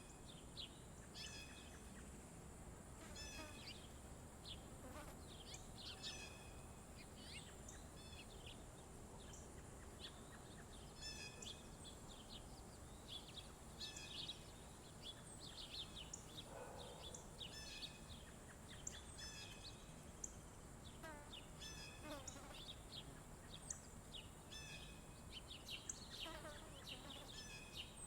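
Several small songbirds chirping and twittering in quick short calls, overlapping throughout, with a steady faint high-pitched hiss underneath.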